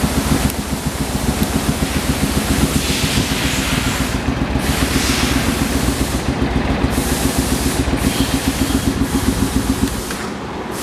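Suzuki Intruder VS800's V-twin engine running with a steady, pulsing exhaust note, dropping slightly in level near the end.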